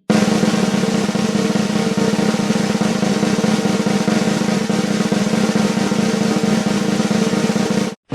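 Snare drum roll, a fast even roll held at a steady level for about eight seconds, which cuts off abruptly near the end.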